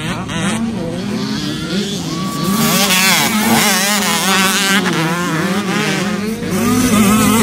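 Several motocross dirt bike engines racing together, their pitches overlapping and repeatedly rising and falling as they rev up and shift.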